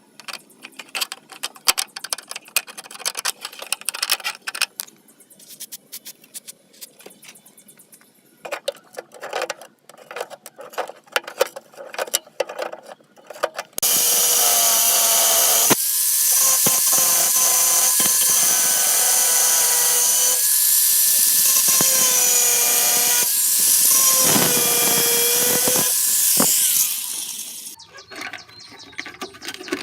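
Scattered clicks and scraping of metal parts being handled, then a handheld electric power tool starts about halfway through. It runs loud and steady for about thirteen seconds, its pitch sagging briefly as it is loaded, then stops.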